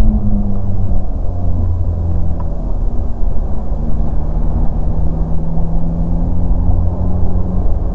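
Ferrari F430 Spider's 4.3-litre flat-plane V8 through its stock exhaust. The engine eases off about a second and a half in, then runs at fairly steady, moderate revs.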